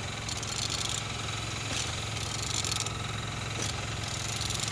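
Vauxhall/Opel Z14XEP 1.4-litre four-cylinder petrol engine idling steadily, running well.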